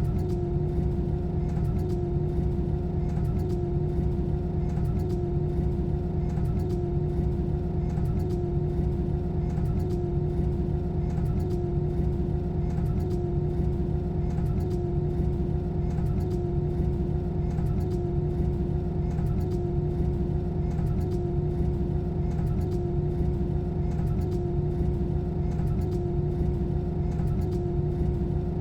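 Airbus A320 cabin during the climb after take-off: the jet engines' steady drone, a deep rumble under a constant hum held at one pitch.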